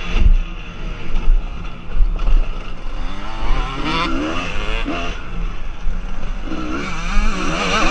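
Motocross bike engines revving, their pitch rising and falling repeatedly as the throttle is opened and closed.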